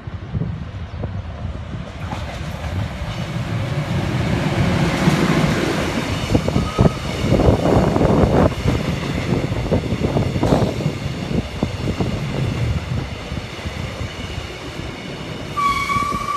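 Mugunghwa passenger train running past below, its wheels rumbling and clacking over the rail joints, loudest in the middle as the coaches go by. A steady horn sounds near the end.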